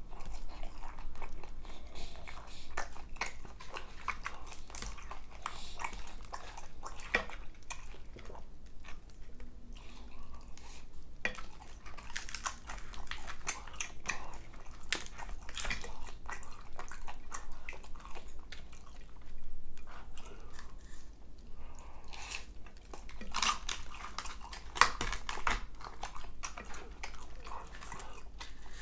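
Chewing and biting food, with some crunching. A metal fork scrapes and taps in an aluminium foil tray of macaroni and cheese.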